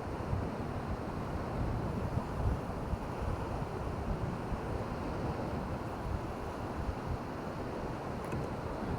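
Surf washing on a shore with wind buffeting the microphone: a steady rush of noise with gusty low-end thumps.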